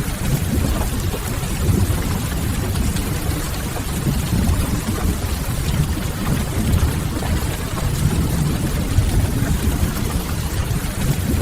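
Steady rain-and-fireplace ambience: an even rush of rain over a deep, constant low rumble, with a few faint crackles from the fire.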